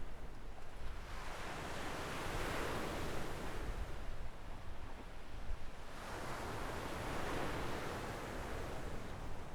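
Gentle ocean waves breaking and washing up a sandy beach, two waves swelling and fading about five seconds apart, over a steady low rumble.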